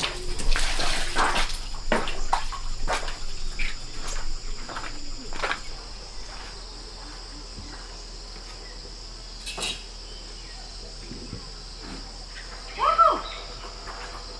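Insects chirring steadily in a high band. Over the first five seconds a run of splashes and knocks sounds above it, and near the end there is one short call that rises and falls in pitch.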